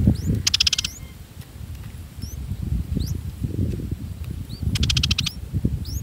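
Small birds calling: thin, high rising chirps repeated every second or so, and twice a short, fast rattling trill, over a low rustling.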